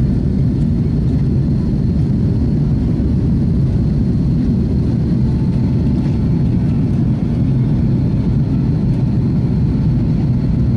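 Airbus A330 jet engines running as a steady low roar, with a faint high whine held throughout.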